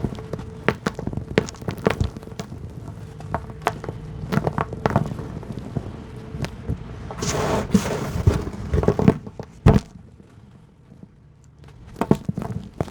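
Chunks of hard dirt crumbling in a run of sharp crunches and cracks, with a spell of falling grit and sand about seven seconds in and a short lull near the ten-second mark.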